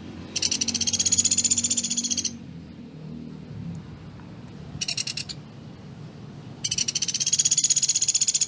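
Sunda pygmy woodpecker (pelatuk beras) giving rapid trills of high, dry repeated notes in three bursts: a long one, a short one in the middle, and another long one near the end.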